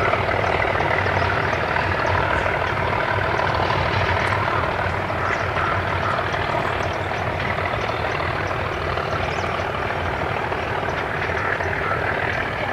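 Metre-gauge train's diesel locomotive running, a steady low engine rumble with noise spread up through the mids and no clear change in pitch.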